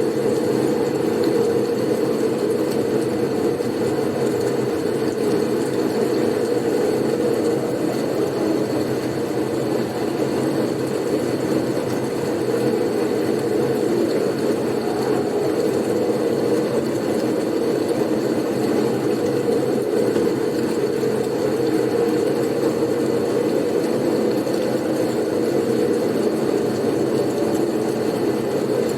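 Blizzard wind ambience: a steady, unbroken rush of wind noise, deep and even, with no gusts or breaks.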